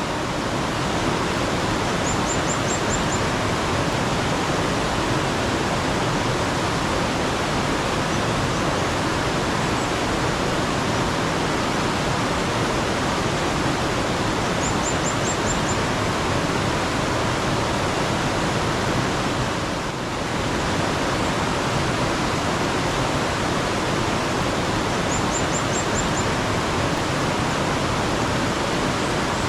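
Steady, dense rushing of flowing mountain-stream water that dips briefly about two-thirds of the way through. Over it a bird gives a short run of about six quick, high chirps three times, roughly every twelve seconds.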